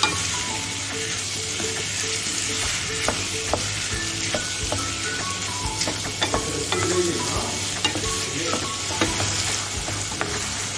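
Peas, onion and tomato sizzling in a stainless steel pan while a spoon stirs them, with frequent small scrapes and clicks of the spoon against the pan.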